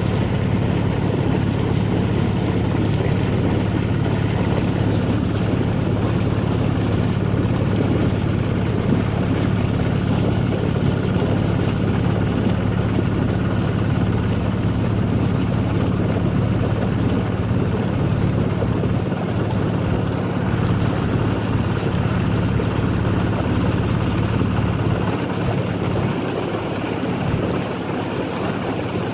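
Boat engine running steadily at speed, a low even hum over the rush of water and wind on the microphone; the engine hum eases a little near the end.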